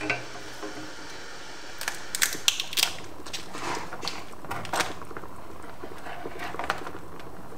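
Shell of a boiled spiny lobster cracking and crackling as it is twisted and pulled apart by hand: a run of sharp snaps about two seconds in, and a few more near the end.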